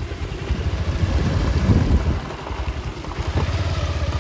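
Motorcycle engine running at low speed, its fast even firing pulses steady throughout, with wind noise on the microphone.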